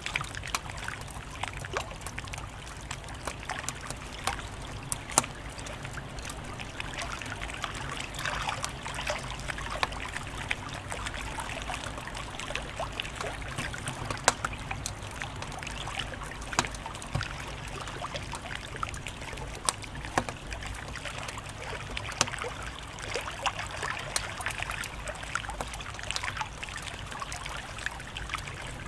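Wood fire crackling: irregular sharp pops and snaps over a steady hiss and low rumble, with a couple of louder pops.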